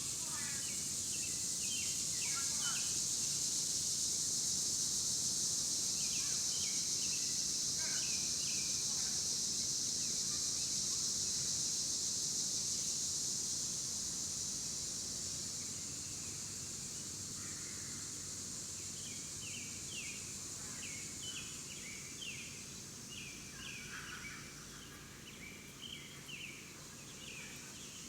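Outdoor ambience: a steady high hiss or buzz, louder in the first half and fading from about halfway, with scattered short bird chirps throughout.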